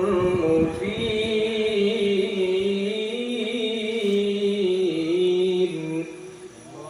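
A qari's solo Qur'an recitation in a high register, holding one long note with small melismatic turns, which fades out about six seconds in.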